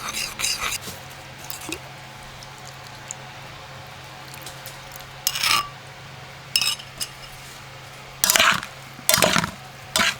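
Cooking utensil scraping and clinking against a pan in short separate strokes as food is stirred, the strokes coming closer together near the end, over a faint steady low hum.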